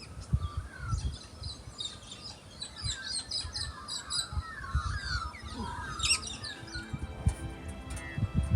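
Several birds chirping and warbling in quick overlapping calls, with gusts of wind rumbling on the microphone. Background music fades in near the end.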